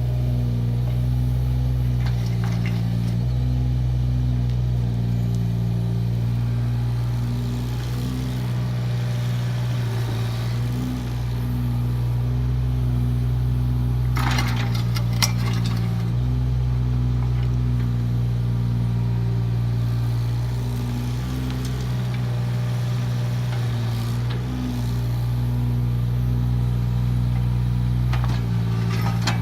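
Kubota KX018 mini excavator's diesel engine running steadily, its note shifting every few seconds as the hydraulics take load while it digs and grades. A few sharp clanks and scrapes of the bucket come about halfway through and again near the end.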